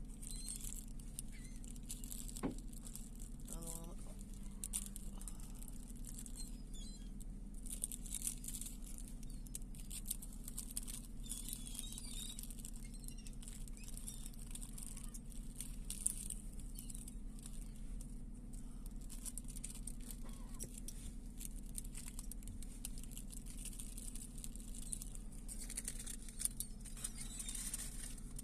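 Seagulls calling now and then, with scattered higher chirps, over a steady low hum.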